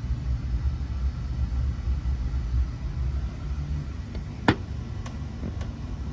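Frigidaire 5,000 BTU window air conditioner running with a steady low hum. About four and a half seconds in comes one sharp click, followed by two fainter clicks.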